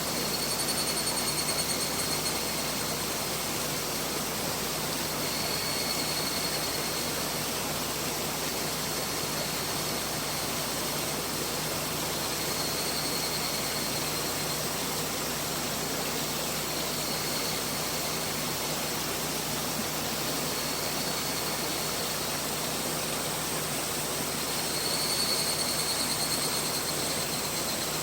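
Mountain river flowing steadily, its rushing water making an even hiss. A high, thin trill comes and goes every few seconds.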